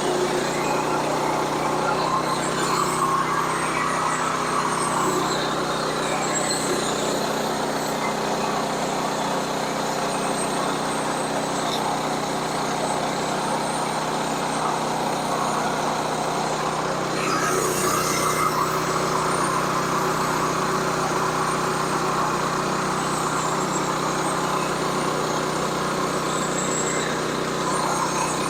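Sawmill engine running at a steady speed while the saw blade cuts through a log, slightly louder between about 17 and 19 seconds in.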